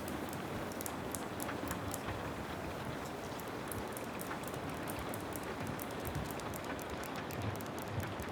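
Steady rain falling, an even hiss with many small sharp ticks of drops scattered throughout.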